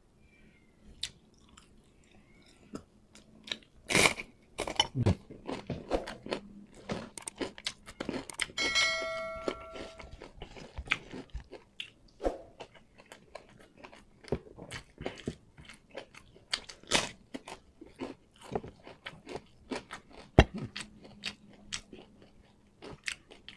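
Close-up eating sounds: chewing and crunching of rice and crisp fried dried fish (tuyo) eaten by hand, with sharp crunches and mouth clicks throughout. A brief ringing tone sounds about nine seconds in.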